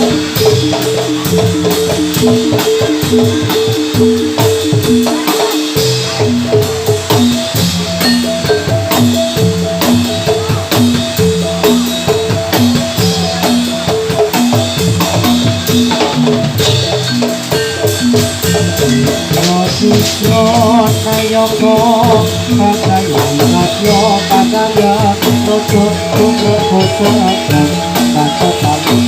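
Live jathilan accompaniment: a Javanese gamelan-style ensemble of drums and tuned metal percussion playing a fast repeating pattern. A wavering melody joins in about twenty seconds in.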